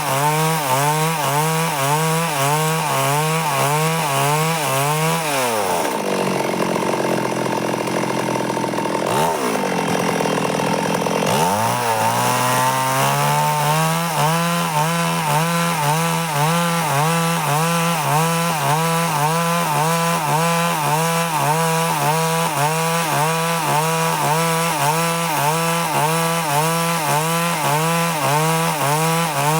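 Stihl chainsaw cutting wood at high revs, its engine pitch wavering about twice a second. About five seconds in the revs fall away, with a short blip near the middle, then the saw revs back up about twelve seconds in and carries on cutting.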